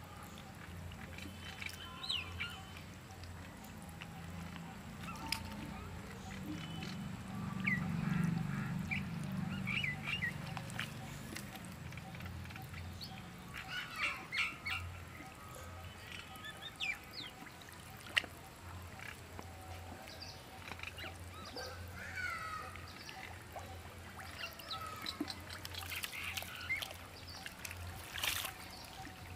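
Birds calling in short, scattered chirps over a steady low hum.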